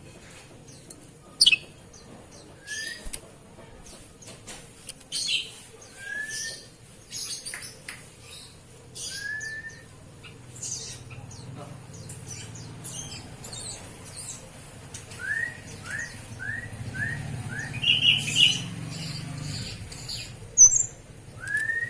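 Oriental magpie-robin (kacer) calling: short rising whistled notes, single ones every few seconds and a quick run of five about fifteen seconds in, among short scratchy chirps.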